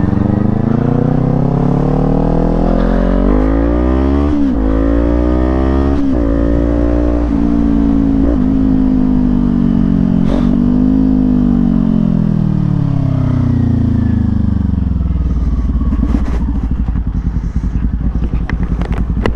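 Small parallel-twin sport motorcycle engine heard from the rider's seat, pulling through the gears. The pitch climbs and drops sharply at upshifts about four and six seconds in, climbs again, then falls away as the bike rolls off and slows. A steady wind rumble on the microphone runs underneath.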